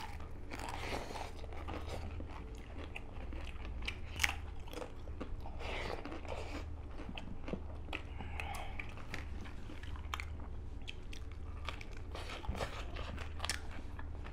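Eating sounds: crisp fried papad and food being bitten and chewed, with scattered sharp crunches at uneven intervals.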